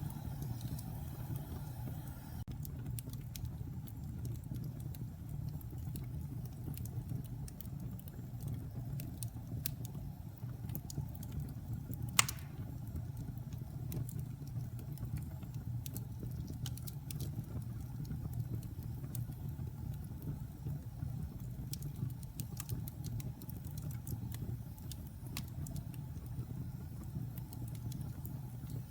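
Log fire in a fireplace crackling: scattered small pops over a steady low rumble, with one sharp, loud pop about twelve seconds in.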